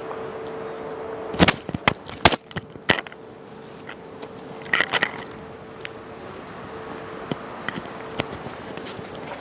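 Microwave oven running with a steady hum that fades away over the second half. Sharp clicks and knocks come in a cluster about one and a half to three seconds in, then twice more near five seconds.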